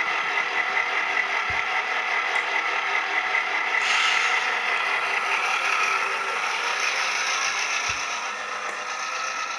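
Model passenger train running on its track: a steady mechanical whir with wheel clatter, getting a little brighter and louder about four seconds in.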